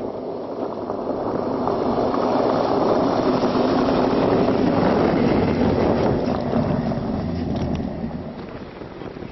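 A pickup truck driving past, its engine and tyre rumble swelling to a peak about halfway and fading away near the end.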